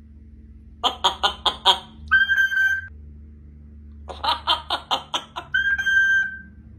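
A pet parrot calling: a quick run of about five short calls followed by a held, steady whistle, the pattern given twice.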